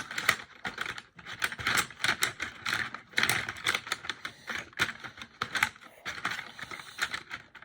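Coloured pencils clattering and clicking against each other as they are pushed into full pencil holders, a quick irregular run of small knocks.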